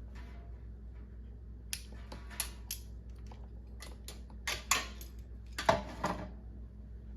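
Scattered clicks, taps and light rattles of hands working hoses and clamps onto the carburettors of a snowmobile, the loudest a few seconds in, over a steady low hum.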